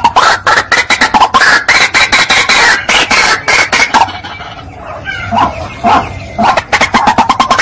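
White-breasted waterhen calling: a fast run of harsh, repeated croaking notes that slackens to a few separate notes around the middle, then speeds up again.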